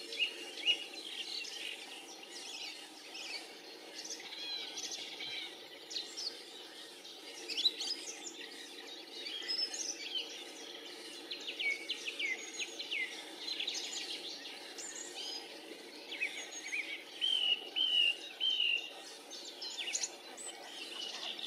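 Many short, high bird calls and chirps, mostly quick down-slurred notes, some in runs of three or four, over a steady low background hum.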